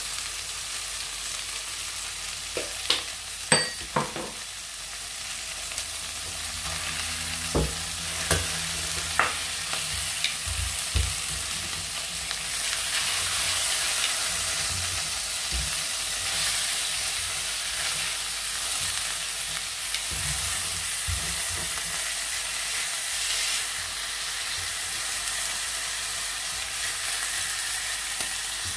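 Whole squid and garlic cloves sizzling in oil in a stainless steel frying pan. A few sharp clicks and knocks come between about 3 and 11 seconds as metal tongs work the squid against the pan, and the sizzle grows louder after about twelve seconds once the squid has been turned.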